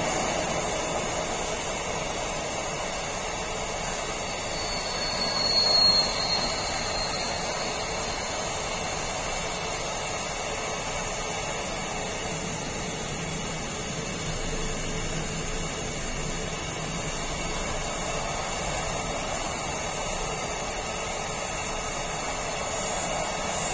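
Container flat wagons of a long freight train rolling past, their wheels running steadily over the rails. A brief high-pitched wheel squeal rises about five to six seconds in.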